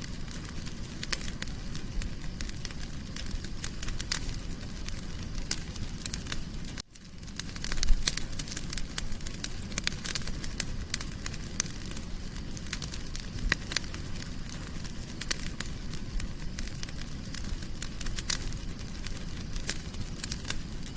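Fire in a fireplace crackling, with many sharp pops of varying strength over a steady low rumble. The sound cuts out for a moment about a third of the way in, then comes back with one loud pop.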